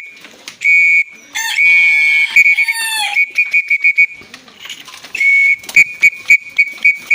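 A pigeon fancier's feeding whistle blown in a series of long blasts and quick short toots, the signal that tells the loft's pigeons it is feeding time. A wavering animal call sounds briefly over it about one and a half seconds in.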